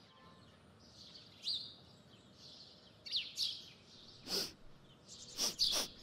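Faint garden ambience of scattered short bird chirps, several rising quickly in pitch, with a few brief noisy puffs in the second half.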